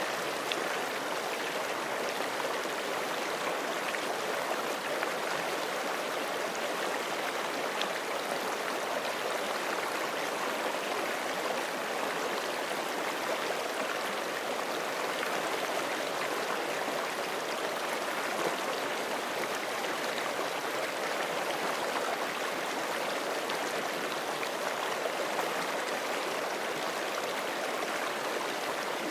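Forest creek flowing steadily, an even rush of water over rocks with faint splashes and trickles in it.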